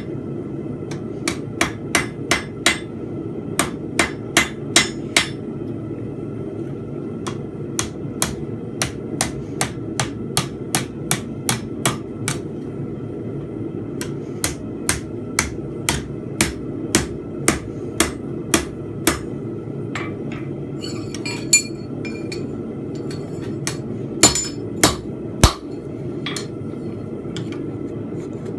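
Blacksmith's hammer striking steel on an anvil while forging a fence peg: runs of sharp ringing blows, about two to three a second, broken by short pauses, over a steady low rushing noise.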